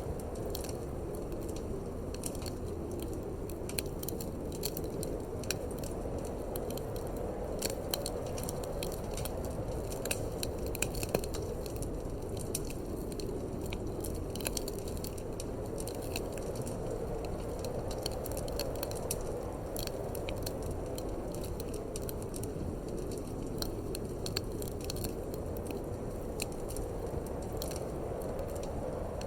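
Wood fire crackling in a fireplace, with frequent irregular sharp pops and snaps over a steady low rush of wind that slowly swells and eases.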